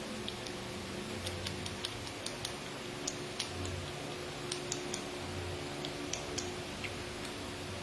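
Faint, irregular light clicks and taps, a dozen or more, from edible disco dust glitter being tapped out over a frosted cake, over a steady low background hum.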